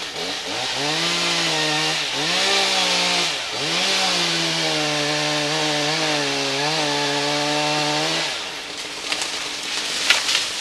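Chainsaw running at full throttle while cutting a tree branch into pieces, its engine pitch dipping briefly a few times early on under load and then holding steady before dropping off about eight seconds in. A quick series of sharp cracks comes near the end.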